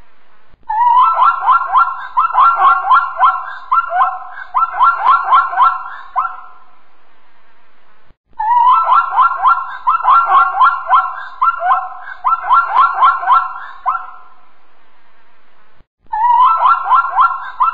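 Plains zebra calling: three bouts of rapid, yelping barks, about four or five a second, each bout lasting several seconds.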